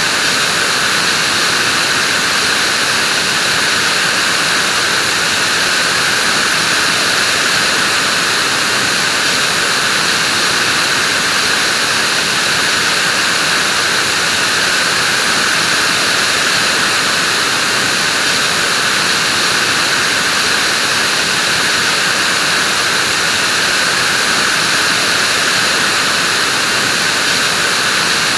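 Vacuum cleaner running steadily: a constant loud rushing whoosh with a hissy upper edge, holding the same pitch and level throughout.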